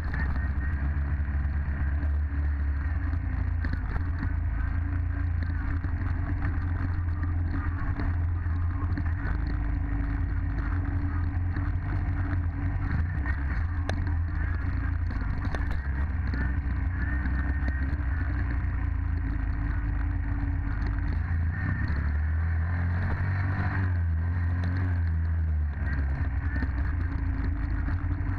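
Dirt bike engine running under way, its note rising and falling with the throttle, with a stepped drop and climb in pitch about three quarters of the way through.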